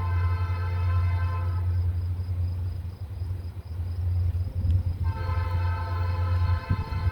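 Diesel freight locomotive's air horn sounding two long blasts, the first ending about two seconds in and the second starting near five seconds, over the steady low rumble of the locomotive.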